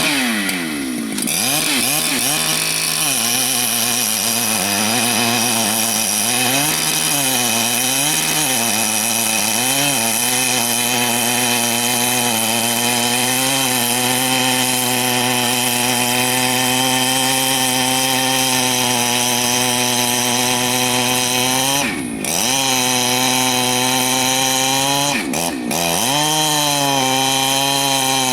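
Large two-stroke Husqvarna chainsaw running at high revs, cutting through rain tree wood. Its engine note falls and rises several times under the changing load for the first ten seconds or so, then holds steady, with two brief sharp drops in engine speed near the end.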